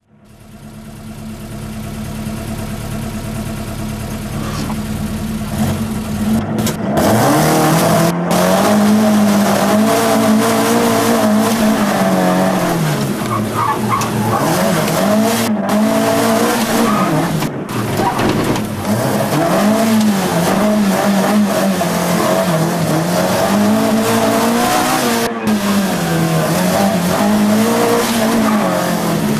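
Rally-prepared Ford Escort Mk1 engine heard from inside the cabin. It runs at a steady note for about the first six seconds, then the car accelerates hard and the revs climb and drop again and again through the gears and corners.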